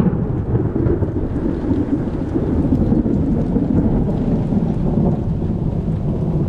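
Thunder from a severe thunderstorm, a steady low rumble that neither builds nor breaks, with rain falling.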